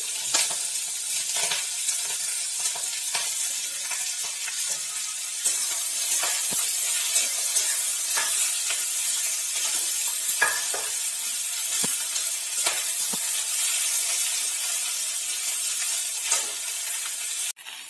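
Cut onion flower stalks sizzling in hot mustard oil in a metal wok (kadai), with a metal spatula scraping and turning them every second or so. This is the first, light frying of the stalks. The sound cuts off suddenly near the end.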